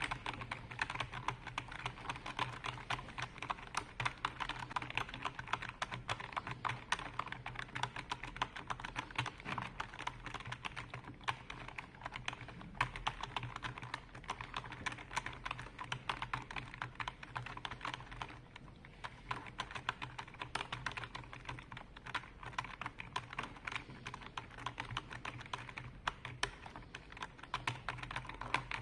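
Fast, continuous typing on a computer keyboard, many key clicks a second, with a short pause about two-thirds of the way in.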